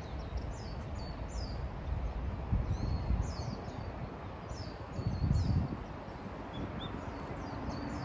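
Small birds chirping over and over, with short high calls that sweep downward, against a steady outdoor hiss. A low rumbling noise swells twice, once about two and a half seconds in and more strongly about five seconds in.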